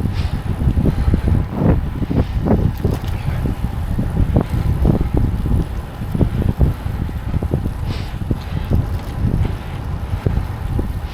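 Gusty wind buffeting the microphone of a camera on the move, a continuous rumble with irregular surges, over road traffic noise.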